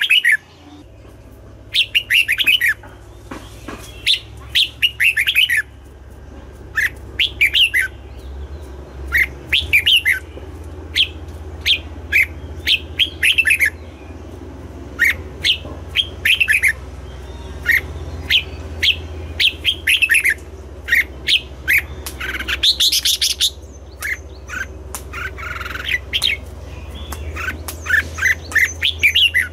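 Red-whiskered bulbul song: short, bubbly phrases of quick chirping notes repeated every second or two, over a steady low hum.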